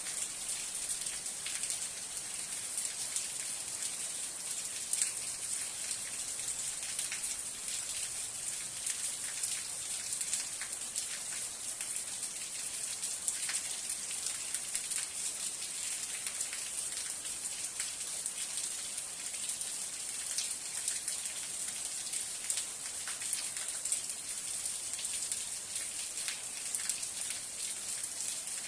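Steady rain falling, a continuous high hiss with many individual drops pattering in it.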